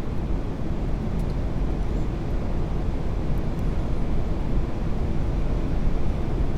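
Steady low rumble of airflow and engines heard in the flight deck of an Airbus A380-800 on final approach, with landing gear down and flaps at full.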